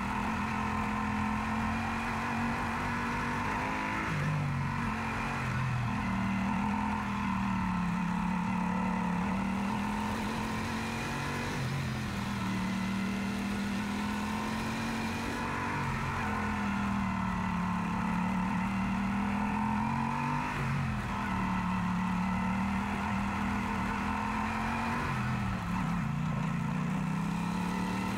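Yamaha Super Ténéré's parallel-twin engine running while being ridden, its note dipping and climbing back several times as the throttle is eased and reopened, over steady wind rush.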